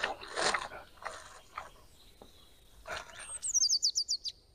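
A small songbird sings a quick run of about eight high, downward-sweeping notes near the end. Before it come soft eating noises, chewing and handling of food on a plate.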